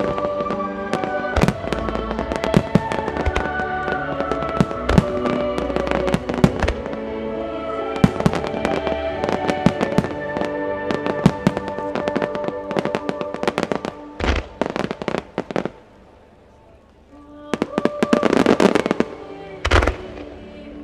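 Starmine fireworks: shells bursting in rapid succession with music playing under them. The bangs thin out after about 14 seconds to a brief lull, then a dense loud crackling cluster comes near the end, followed by one last sharp bang.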